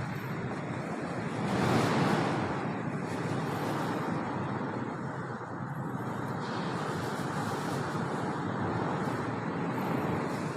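Strong storm wind blowing in heavy gusts, with the loudest gust swelling about two seconds in. To those present it seems to be a puting beliung, a whirlwind.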